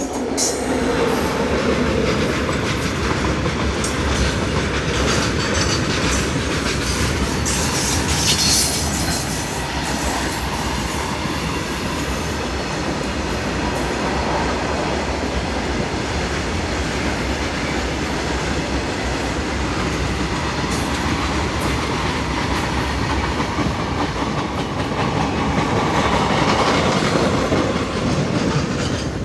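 Passenger express train running along the track, a steady noise of steel wheels on rails with clickety-clack over the rail joints and a cluster of sharp clicks about eight seconds in.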